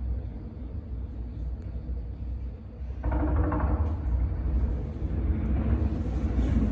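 Fireworks going off: a steady low rumble of distant bursts, with a louder burst about three seconds in that keeps rumbling.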